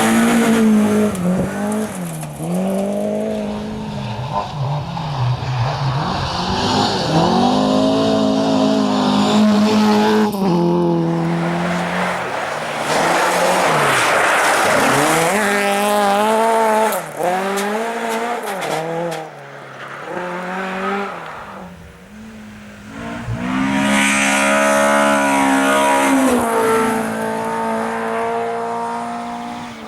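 Ford Escort rally cars driven hard, engines revving with the pitch climbing and dropping repeatedly through gear changes and lifts, in several separate passes cut together. In places a hiss of tyre noise runs under the engines.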